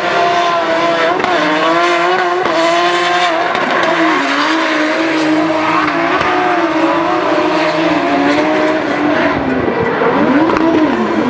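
Drift cars at high revs through a slide, the engine pitch wavering as the throttle is worked and dipping and climbing again near the end, with tyres squealing.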